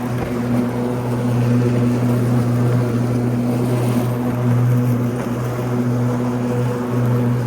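Ryobi 80V electric riding lawn tractor mowing, its blade motors at medium speed giving a steady, even hum.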